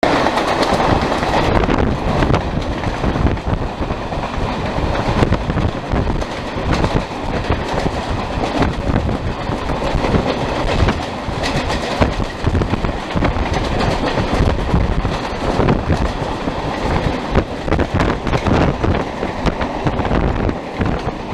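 Mumbai suburban EMU local trains running at speed, heard from aboard: a loud, steady rumble of wheels on rails with an irregular clatter over the track.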